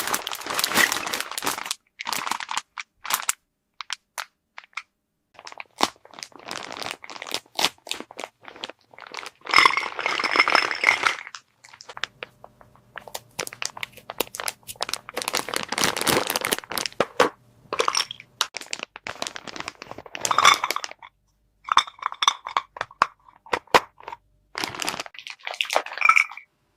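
Small plastic toy pieces and plastic packaging being handled: crinkling and crunching rustles with many light clicks and a few short squeaks of plastic rubbing on plastic.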